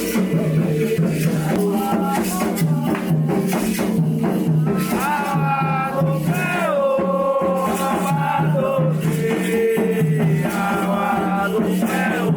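Candomblé ritual song: voices singing over a shaken rattle and a low, steady beat.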